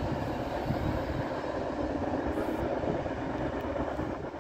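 Freight train rolling away past a grade crossing, giving a steady low rumble that eases off slightly near the end as the crossing gate starts to rise.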